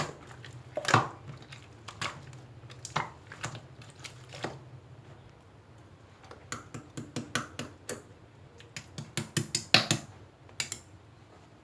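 Irregular light clicks and knocks of small hard objects, with a quick run of them near the end.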